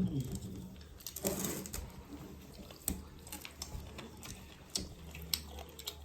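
Wet eating sounds from rice and mutton curry being eaten by hand: soft chewing with scattered short clicks and lip smacks, and a brief squelchy rustle about a second in.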